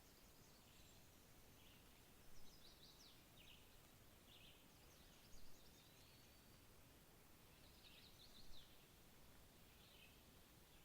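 Birds calling faintly over a low steady hiss: short high chirps and quick series of sharp down-sweeping notes every second or two, with a brief whistled glide about six seconds in.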